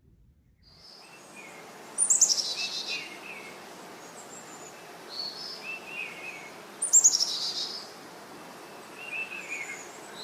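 Birdsong: a loud, quickly falling trilled phrase sung twice about five seconds apart, with quieter chirps from other birds between them over a steady outdoor hiss.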